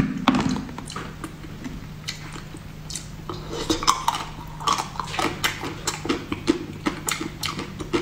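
Wet chewing and mouth clicks while eating a soft grape-shaped jelly dessert, many short sharp snaps, denser in the second half. A spoon knocks against the plate at the very start.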